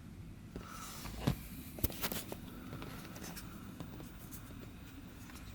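Faint clicks and light taps of fingers handling a small dash cam and its screen, with a few sharper clicks between one and two seconds in, over quiet car-interior room tone.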